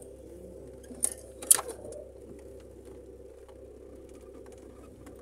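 Car engine running quietly, heard from inside the cabin, with two sharp clicks about a second in.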